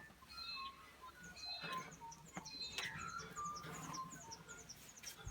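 Birds singing and chirping: repeated short whistled notes, joined from about three seconds in by a fast run of high, short descending chirps.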